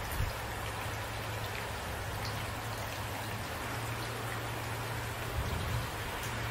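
Steady rain falling, an even hiss, with a steady low hum beneath it. A couple of brief low thuds come just after the start and again about five and a half seconds in.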